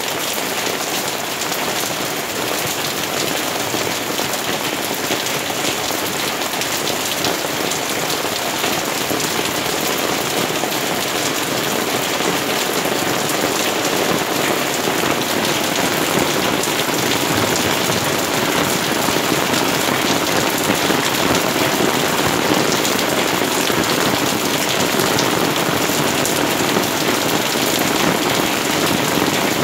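Steady rain falling on garden foliage, grass and stone paving: a dense, even patter of drops that grows slightly louder from about halfway through.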